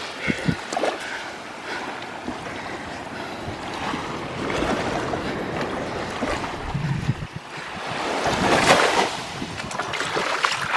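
Waves washing onto the shore, with wind on the microphone; a louder wash swells up about eight seconds in and fades.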